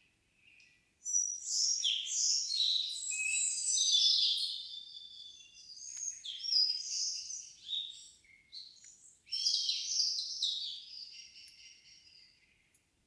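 A songbird singing three long, intricate warbling phrases, high-pitched and full of quick trills and changes of note, with short pauses between them.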